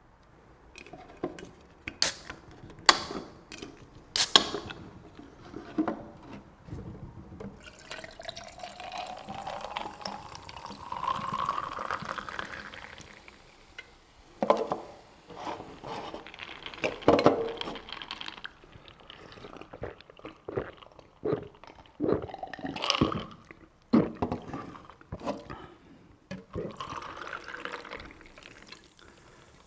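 Sunny Ten orange soda being poured over ice into a glass, the pour rising steadily in pitch as the glass fills. It is preceded by a few sharp clicks and followed by irregular short clinks and slurps.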